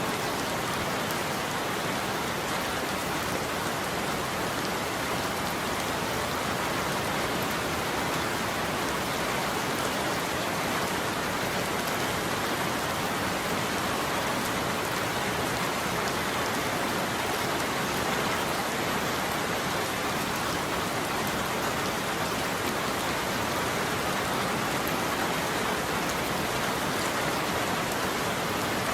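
Steady rain falling on a roof, an even, unbroken hiss with no thunder.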